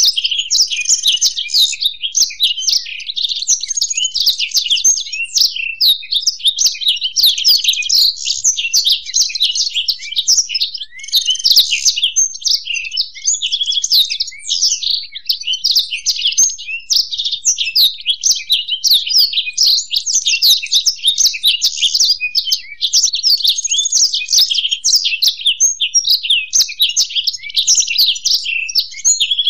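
Black-throated canary (blackthroat) and European goldfinch singing together: a dense, rapid, unbroken twittering song full of quick chirps and trills.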